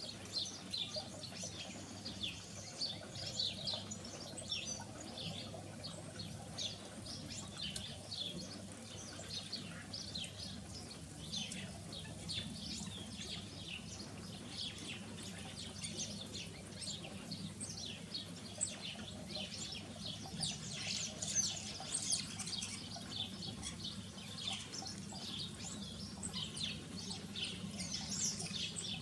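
Small garden birds chirping and twittering continuously, many short, high calls overlapping, busier near the end.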